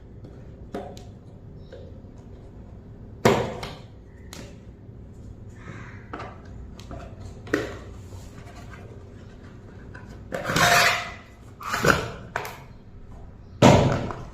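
Objects being handled on a hard surface: scattered clicks and knocks, a rustle about two-thirds of the way in, and several louder thumps, the loudest near the end.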